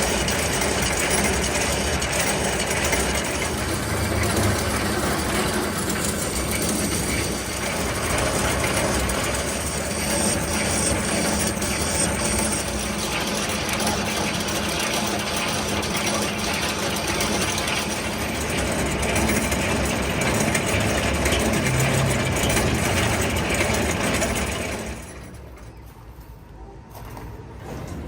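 Workshop machinery running with a steady, loud mechanical clatter, which drops away sharply about three seconds before the end.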